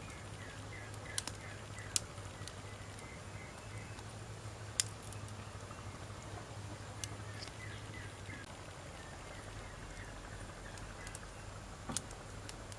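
Wood fire crackling: a steady hiss broken by a few sharp pops of burning wood, the loudest about two, five and twelve seconds in.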